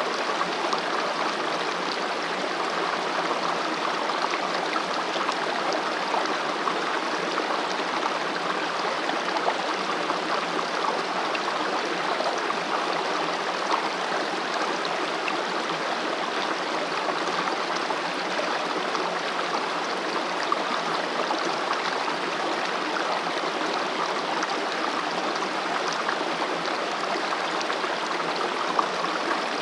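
Mountain valley stream running over rocks, a steady rushing and gurgling of water.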